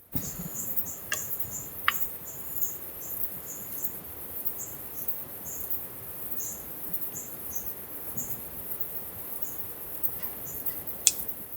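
Summer insects chirping, cricket-like: a continuous very high trill with short chirps repeating over it. A few sharp clicks stand out, about a second in, near two seconds and near the end.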